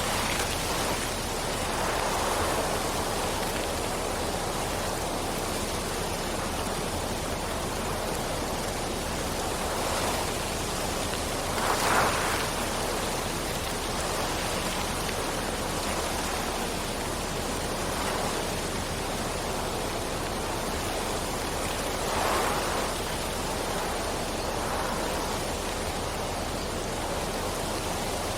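Steady rain falling, an even hiss with a few brief louder swells, the strongest about 12 seconds in.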